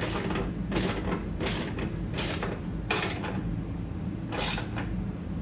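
Socket ratchet working the skid-shoe adjustment bolts on a snow blower: a short burst of ratchet clicking on each back-swing, about every three-quarters of a second, with a longer gap near the end.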